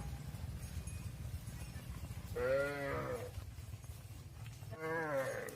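Cattle mooing: two separate calls, each under a second and rising then falling in pitch, over a steady low hum.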